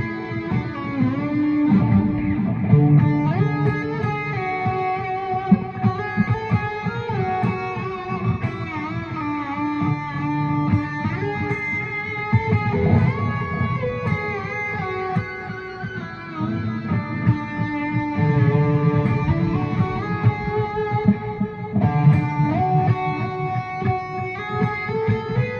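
Guitar improvising a melody in D Lydian, single notes often sliding into one another, over a sustained low note.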